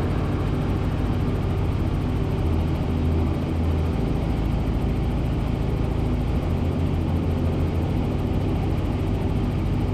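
Helicopter in cruise flight heard from inside the cabin: a steady low drone of the engine and rotor, swelling slightly every few seconds.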